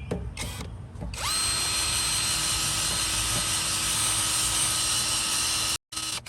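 Electric drill running at a steady speed, starting about a second in and cutting off abruptly near the end.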